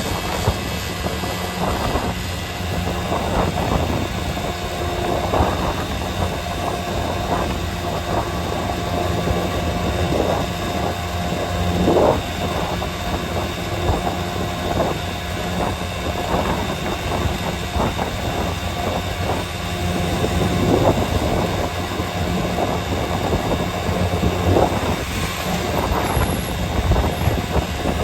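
A motor vehicle running along a road, with steady engine and road noise and frequent irregular knocks and rattles.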